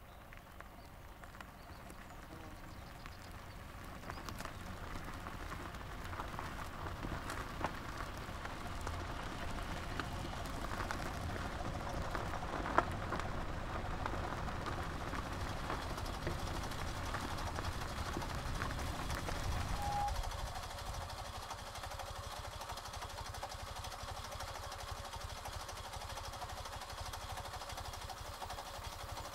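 A Fiat 126's small air-cooled two-cylinder engine running as the car drives, growing louder over the first several seconds as it approaches, with one sharp knock about 13 seconds in. About 20 seconds in the deep rumble drops away, leaving a thinner, steady hum.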